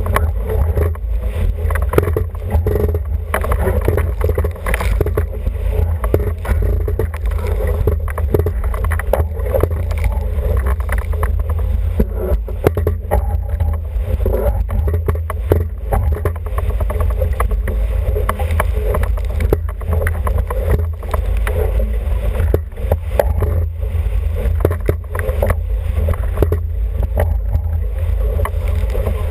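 Wind buffeting the microphone over water rushing and splashing against the hull of an International 14 sailing dinghy under way, with frequent short knocks and slaps throughout.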